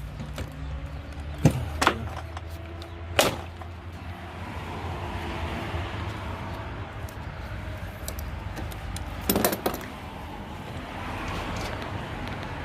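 Hand tools knocking and clinking against a push mower's wheel hub as the wheel is worked off for a bearing change. There are a few sharp knocks in the first three seconds and a quick cluster of clicks about nine seconds in, over a low steady hum.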